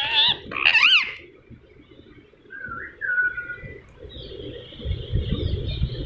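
Indian ringneck parrot calling: loud, pitch-bending squawks in the first second, then a short, faint whistle about halfway through.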